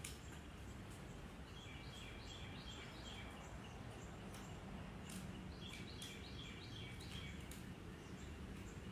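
A songbird in the background sings two runs of short, quickly repeated chirps, over a steady low hum and background noise. A few faint clicks come through.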